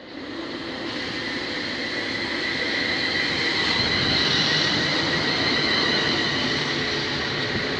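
London Midland Class 350 Desiro electric multiple unit arriving at the platform. A steady rumble of wheels on rail builds over the first second, with steady high-pitched tones over it.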